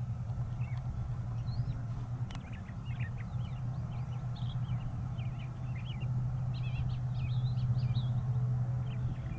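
Songbirds chirping and twittering in many short calls over a steady low rumble.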